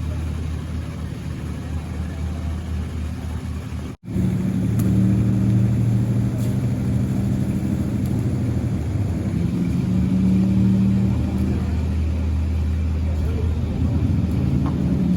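A boat engine running steadily with a low, even hum. About four seconds in there is a very brief gap, and after it the hum is louder.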